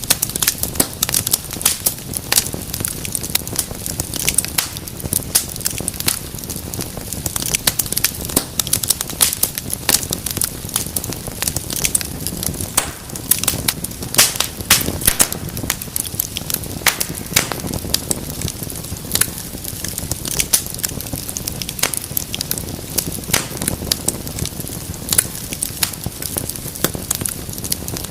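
Wood fire crackling steadily: many irregular sharp pops and snaps over a low rumble of burning.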